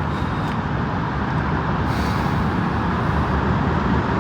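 Steady low rumble of freeway traffic.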